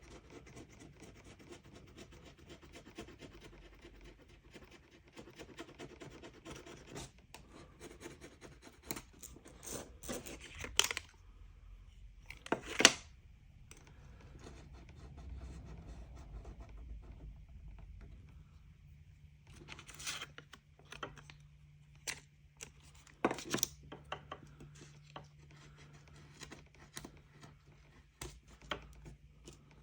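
Close-up scratching and rubbing from hand work on a small LCD panel, with scattered sharp clicks and taps and two louder snaps near the middle.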